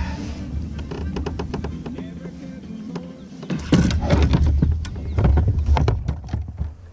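A hooked fish being landed in a kayak: a run of small sharp clicks and knocks, with louder spells of knocking and rubbing about halfway through and again near the end.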